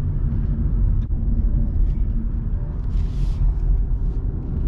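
Small car driving downhill, a steady low rumble of engine and tyres heard from inside the cabin, with a brief hiss about three seconds in.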